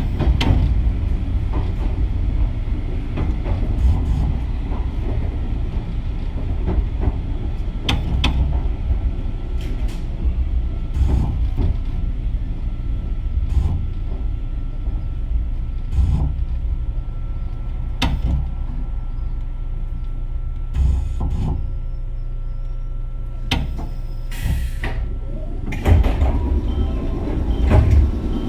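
Nankai 22000-series electric train heard from on board while running: a steady low rumble of wheels on rail, with a sharp click from a rail joint every couple of seconds. A few louder clunks come near the end.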